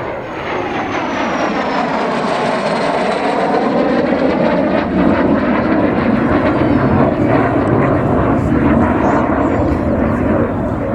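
MiG-15UTI jet trainer's single turbojet engine passing by: a high whine falls in pitch over the first few seconds while the jet roar grows louder and then stays loud.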